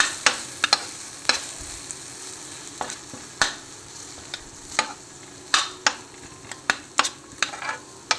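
Onions and red masala paste sizzling in a pan while a metal spoon stirs them, with a dozen or so sharp, irregular clicks and scrapes of the spoon against the pan over a steady frying hiss.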